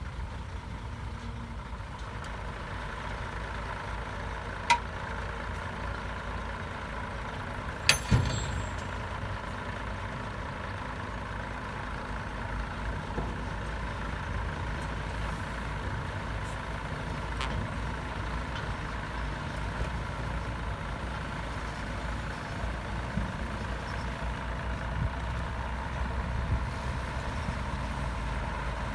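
Heavy diesel earthmoving machinery running steadily with a low rumble. There is a sharp knock about eight seconds in, the loudest sound, and a smaller one a few seconds before it.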